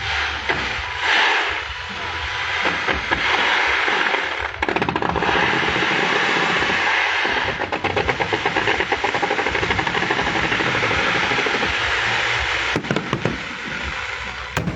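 Fireworks going off in a continuous barrage: a dense, rapid crackle of many small bangs, with a few louder single bangs near the end.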